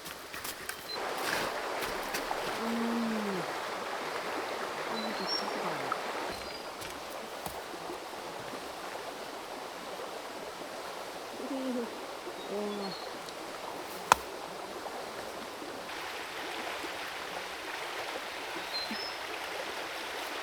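Creek water running steadily over stones, with a few brief low hums and a single sharp click about fourteen seconds in.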